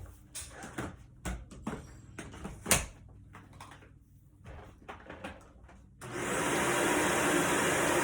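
A few light knocks and clicks, then about six seconds in a vacuum cleaner switches on and runs with a steady, loud rushing hum.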